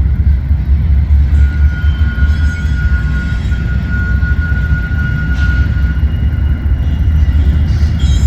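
Train passing with a heavy low rumble and a steady high-pitched squeal from about a second in until about six seconds in.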